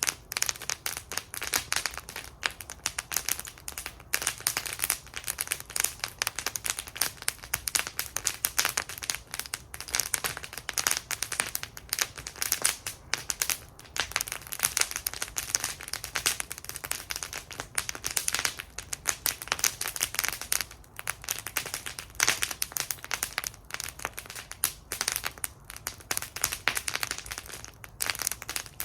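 Wood fire burning in a metal fire bowl, crackling and popping continuously with many sharp snaps, over a faint low rumble of the flames.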